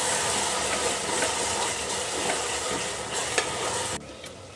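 Onion-tomato masala with ginger-garlic paste sizzling in an aluminium pressure cooker while a spoon stirs it, scraping and tapping against the pot. The paste is being fried to drive off its raw smell. The sizzle cuts off suddenly near the end.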